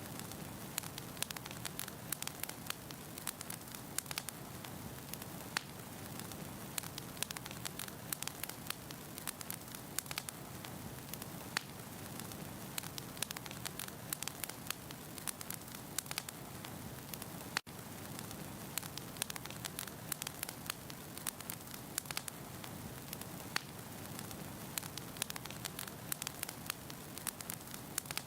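Wood fire burning in a fireplace: a steady low hiss of flames with many sharp crackles and pops from the logs. Near two-thirds of the way through the sound drops out for an instant.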